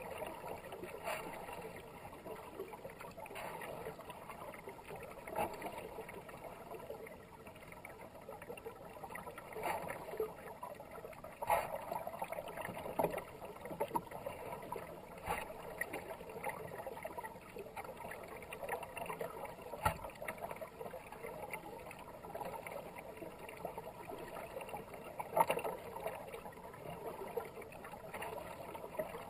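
Kayak paddle strokes splashing into the water about every two seconds, over a steady wash of fast-moving river water.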